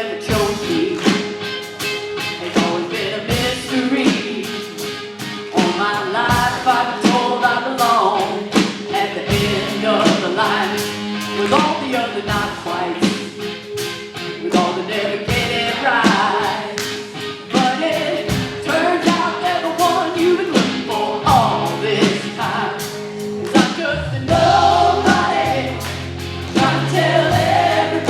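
Live contemporary worship music: singers over a band with a steady drum beat. Low bass notes come in during the last quarter.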